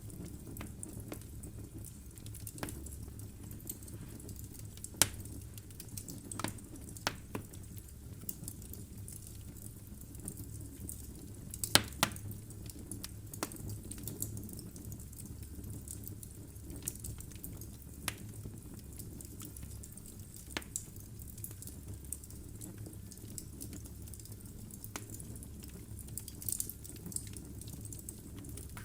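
Wood fire burning in a fireplace: a steady low rumble of flames with irregular crackles and snaps from the burning logs, the sharpest pops about five and twelve seconds in.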